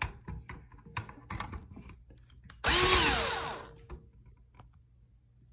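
Power drill run in one short burst, its motor whining up and back down, used to back out a ceiling fan blade screw. Light clicks and knocks of handling come before it.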